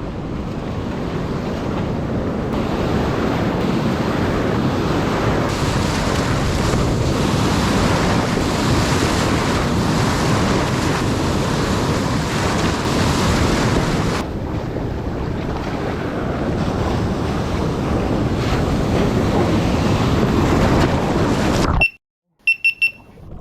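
Steady wind noise on the microphone mixed with the rush of sea water around a kayak on the open ocean. It cuts off suddenly near the end, and a few short high beeps follow.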